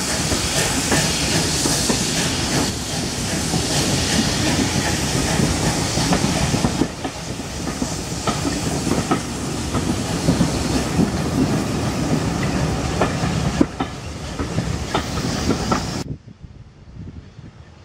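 Steam-hauled passenger coaches running past close by, their wheels clicking irregularly over the rail joints. A loud hiss of steam drops away about seven seconds in. About sixteen seconds in the sound cuts sharply to a much quieter, distant background.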